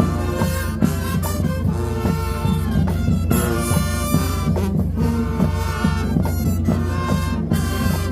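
High school marching band playing a dance-routine tune: brass and winds over a rhythmic drum pulse, with a steady low bass note underneath.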